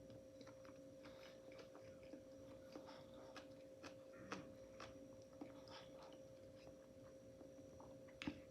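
Faint chewing and wet mouth clicks from someone eating, irregular and soft, over a steady faint hum.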